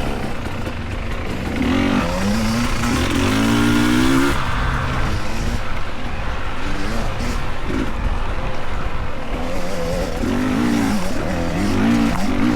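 Dirt bike engines revving up and down as riders race along the course, pitch climbing about two seconds in and again near the end.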